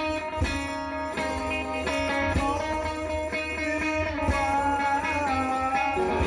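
Live rock band music led by an electric guitar, with notes bent up and down near the end over steady drum hits.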